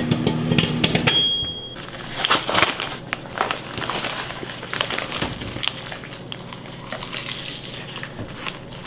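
Music cuts off about a second in. A short high beep follows, then a long run of irregular crunching, crackling clicks that slowly grows fainter.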